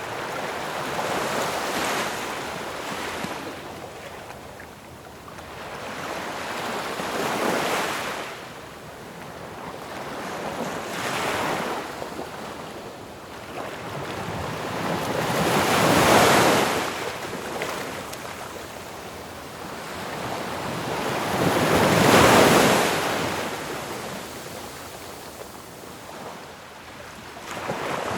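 Ocean waves breaking and washing on a shore, one after another, rising and falling in a steady rhythm; the two biggest crash about halfway through and again near the three-quarter mark.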